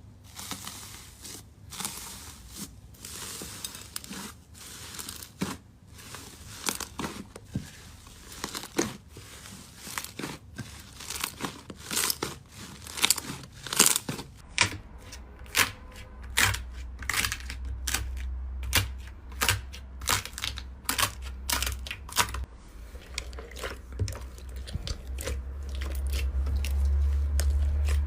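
Slime being squeezed, stretched and pressed by hand, with crackling and sharp popping clicks, thick in the middle. A low rumble builds from about halfway through.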